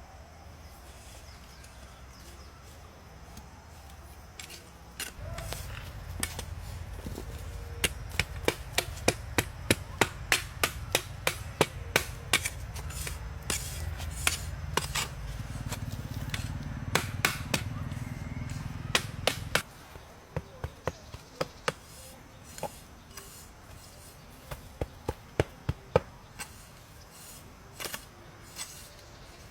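Sharp knocks of a tool striking wood, chopping or hammering, two to three a second at their fastest and then more scattered. Under the densest stretch runs a steady low rumble that starts about five seconds in and cuts off suddenly about two-thirds of the way through.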